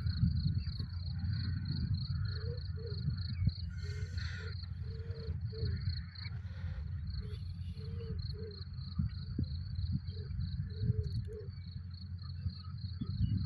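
Crickets chirping in a steady high pulse, about four chirps a second, over a low rumble.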